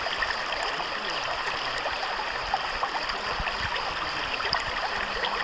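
A natural stream running over rocks: steady rushing water with lots of small splashes and gurgles.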